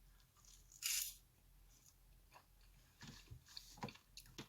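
Faint chewing and small mouth clicks while eating, with one short, louder noisy burst about a second in.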